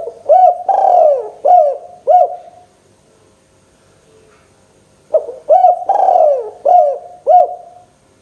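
Spotted dove cooing: two phrases of about five coo notes each. The second phrase starts about five seconds in.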